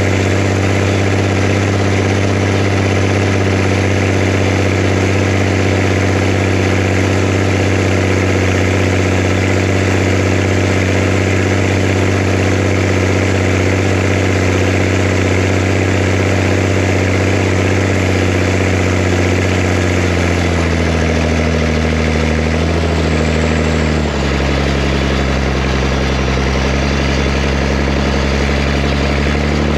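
Zetor Crystal 16145 tractor's six-cylinder diesel engine running at a steady raised speed, then slowing from about twenty seconds in and settling to a lower, steady idle about four seconds later.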